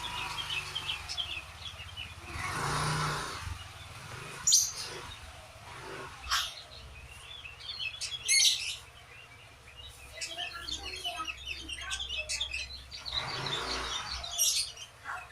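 Sooty-headed bulbul (kutilang) singing: runs of short chirps broken by a few louder, sharp calls, over a steady low hum.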